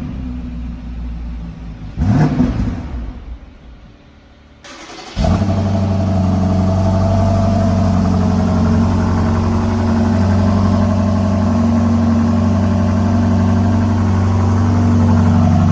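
BMW X5 M twin-turbo V8 revving down, blipped once about two seconds in, then shut off. About five seconds in it is started again and fires with a loud burst, settling into a steady idle through the exhaust.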